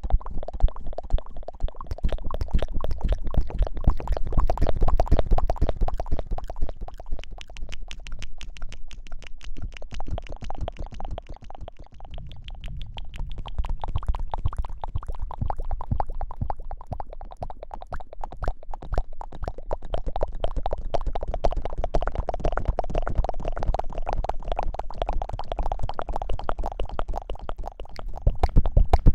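Close-miked hair washing: lathered hair being rubbed, a dense, continuous squishy crackle of many quick little clicks that swells and eases a few times.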